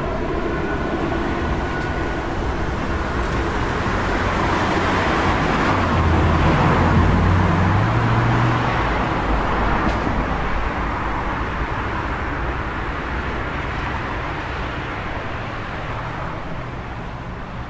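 City street traffic noise, with one vehicle passing: its engine drone and tyre noise grow louder to a peak about seven seconds in, then fade away slowly.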